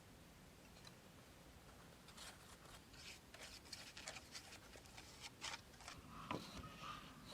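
Near silence with faint, scattered light clicks and rustles starting about two seconds in, as of small handling noises.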